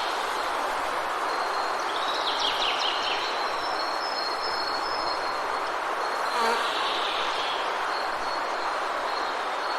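Forest ambience: a steady, even hiss with a thin, high, steady tone above it. Birds chirp, with a quick run of calls about two to three seconds in and another short call about six and a half seconds in.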